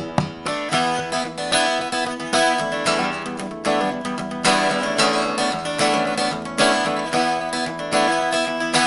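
Acoustic guitar strumming chords in an instrumental break of a folk-style song, with no singing.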